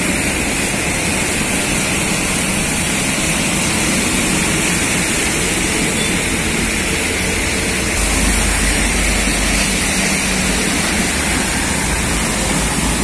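Heavy truck engine and road traffic running steadily as a dense rumbling noise, the low rumble growing stronger about eight seconds in.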